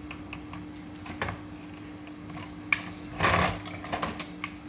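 Plastic toy tanker truck being handled: scattered light clicks and knocks, with a short scraping rustle about three seconds in, over a steady low hum.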